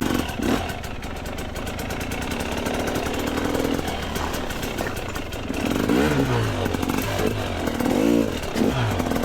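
Two-stroke dirt bike engine running, with several blips of the throttle in the second half, the revs rising and falling away after each.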